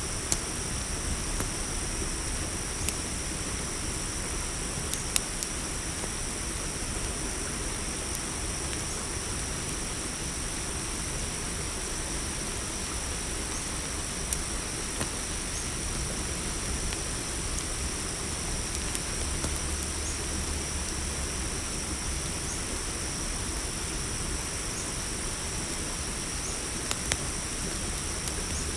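A steady chorus of crickets trilling high and unbroken over a campfire's crackle, with a sharp pop from the fire now and then.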